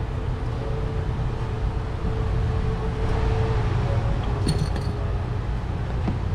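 Steady low machine hum of workshop background noise, with a steady tone that fades out about halfway through and a few light clicks a little after that, as spark plug wire boots are handled.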